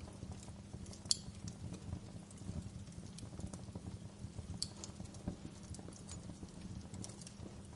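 Fire burning with a steady low rumble and irregular crackles, with two sharper pops about a second in and past the middle.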